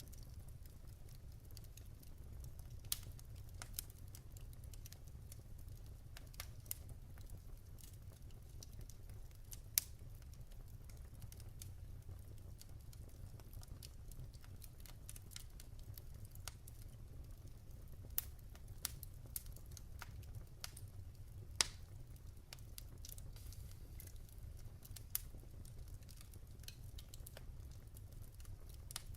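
Wood logs burning in a fireplace: irregular sharp crackles and pops over a low steady rumble, with louder pops about ten seconds in and again about twenty-two seconds in.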